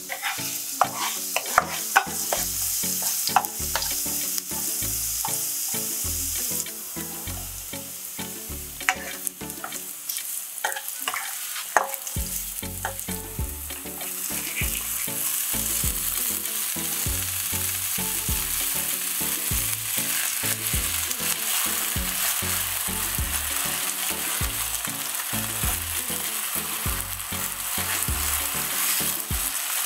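Garlic and mushrooms sizzling in hot oil in a nonstick wok, with sharp clicks of a spatula against the pan. About 14 seconds in, a bowl of mixed vegetables is tipped in and the sizzle grows louder and steadier as they are stir-fried.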